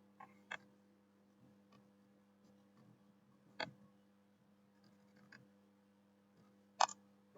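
Three isolated computer mouse clicks about three seconds apart, the last one the loudest, near the end, over a faint steady hum.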